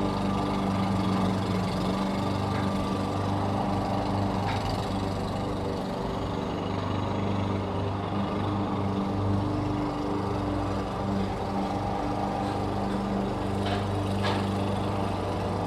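Petrol lawn mower engine running steadily with an even, unchanging drone, and a few faint light clicks, such as debris hitting the deck, a few seconds in and near the end.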